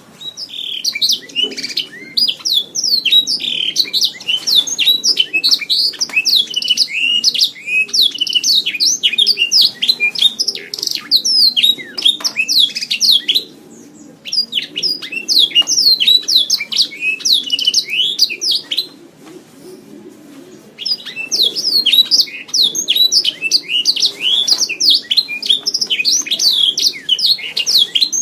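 Domestic canary singing: long, rapid phrases of chirps and trills, broken by two short pauses.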